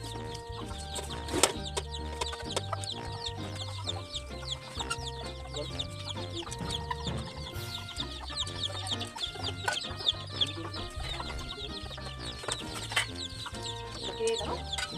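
Background music over close-up eating sounds: chewing, slurping and sharp clicks of mussel shells as buttered garlic mussels are eaten.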